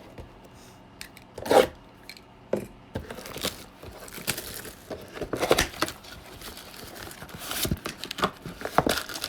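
Trading-card pack wrapper being torn open and crinkled by hand, a run of irregular crackles and rustles, with one brief louder noise about a second and a half in.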